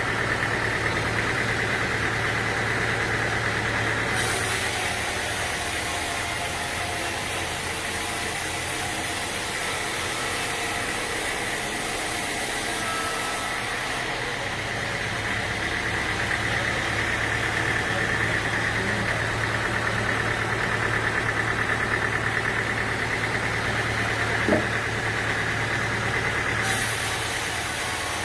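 Sawmill engine running steadily with an unchanging hum, with one short sharp click near the end.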